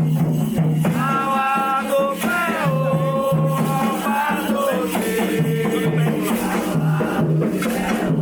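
Candomblé ritual song: voices singing over a shaken rattle and an evenly repeating drumbeat.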